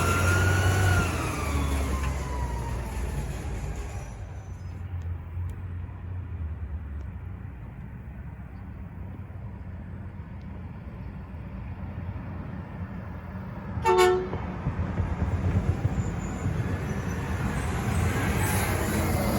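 Garbage truck engines in a depot yard. One truck drives off, its engine note falling as it fades over the first few seconds, leaving a steady low idle rumble. A short horn toot sounds about fourteen seconds in, and another truck draws near at the end.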